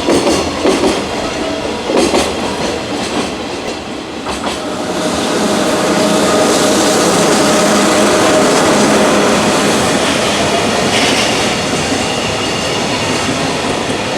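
Freight train running past on the rails. Its wheels clack over rail joints for the first couple of seconds, then the sound becomes a steadier, louder rumble with a thin whine held through it.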